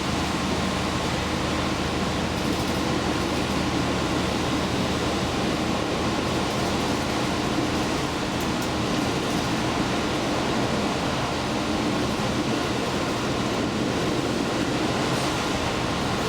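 Diesel limited express train running steadily, heard from inside the leading car: a constant engine drone with an even rush of wheel and rail noise.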